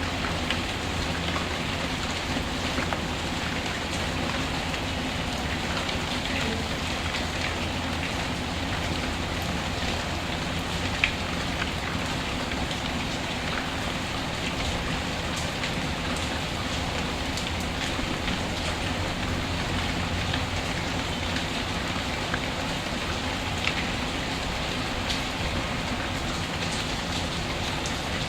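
Steady rain falling, an even hiss with scattered small pops and crackles from a wood fire, the sharpest about eleven seconds in.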